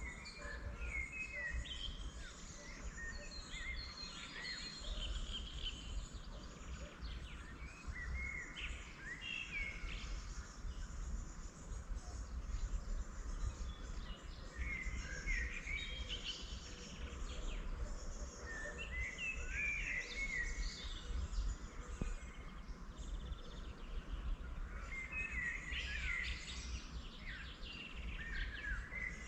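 Songbirds singing in willow trees, in bouts of quick chirping phrases that come every few seconds, over a low steady rumble.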